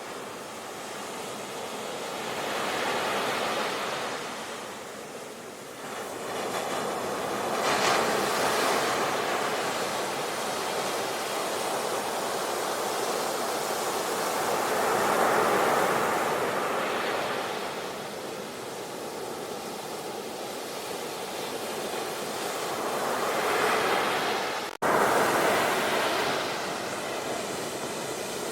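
Ocean waves breaking and washing ashore, the surf swelling and falling back every few seconds. About three-quarters of the way through, the sound drops out for a split second and resumes abruptly.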